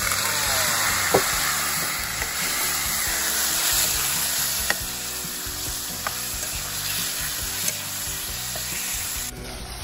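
Raw chicken pieces frying in hot oil in a wok: a steady sizzle, with a few sharp knocks of the metal ladle stirring against the wok. The sizzle drops suddenly to a lower level near the end.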